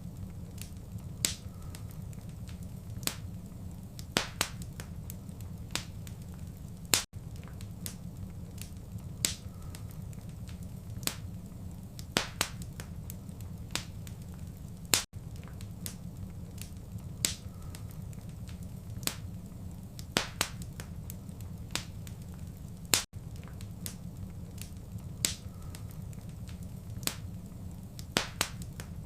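Wood fire crackling in a fireplace: sharp irregular pops and snaps over a steady low rumble. The same pattern of pops repeats every eight seconds, with a brief dropout at each repeat, as in a short looped recording.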